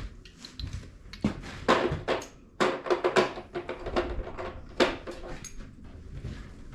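Tools being handled on the workbench: an irregular string of knocks and clatters, the loudest between about a second and a half and five seconds in.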